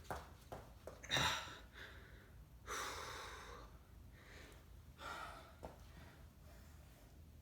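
A person breathing hard and gasping from strenuous exercise. A sharp gasp comes about a second in, a longer heavy exhale around three seconds, and another breath near five seconds.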